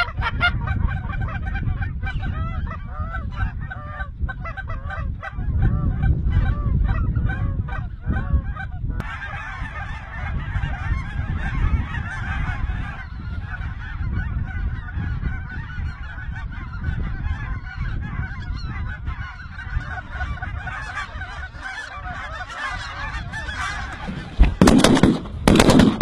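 A flock of geese honking and calling continuously, first a few distinct calls, then many overlapping in a dense chorus, over a low rumble. Near the end come several loud bangs, shotgun fire.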